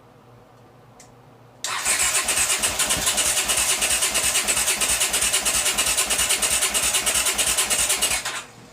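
Electric starter cranking a long-unused, liquid-cooled, carbureted motorcycle engine: an even, rapid pulsing for about six seconds that stops abruptly without the engine catching. A single click comes about a second in, just before the cranking.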